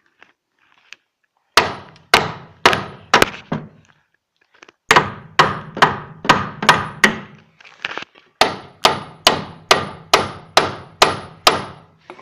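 Hand hammer striking the seized steel hub assembly of a 1989 VW Golf 2: about twenty blows in three runs of roughly two a second, each with a short metallic ring. The part has never been removed and is stuck fast.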